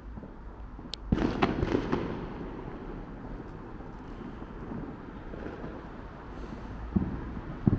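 Fireworks going off: a quick run of crackling bangs about a second in, then two single bangs near the end.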